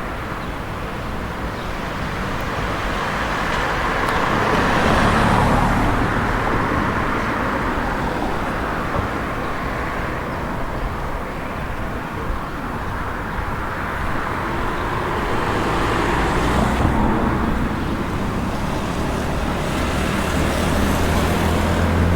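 Street traffic: cars passing, their engine and tyre noise swelling twice and fading. A low, steady engine hum comes in near the end.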